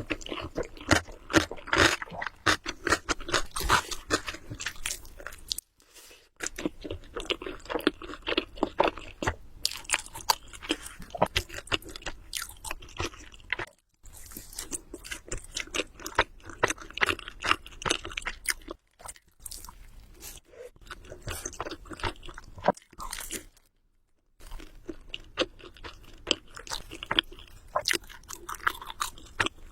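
Close-miked chewing of spicy carbonara instant noodles: dense, irregular wet mouth clicks and squelches, stopping briefly about 6, 14 and 24 seconds in.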